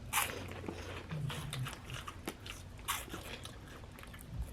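Close-up crunching and chewing of crunchy spicy puffed snacks, eaten fast, with a string of sharp crunches.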